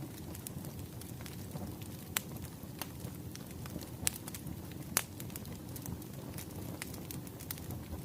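Wood fire crackling: a steady low rumble of burning logs with scattered sharp pops, the loudest about two, four and five seconds in.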